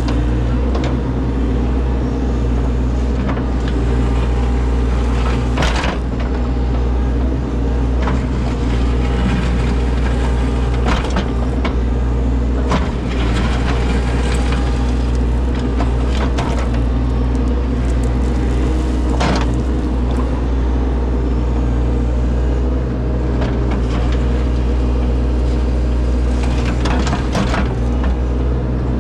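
Engine of an excavating machine running steadily, with scattered sharp knocks and clanks from the digging.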